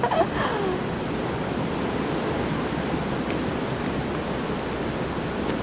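Steady rushing of falling water, an even roar without pitch or breaks.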